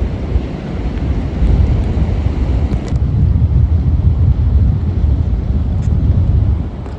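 Storm wind buffeting the microphone: a loud low rumble that gusts harder about a second and a half in and eases near the end.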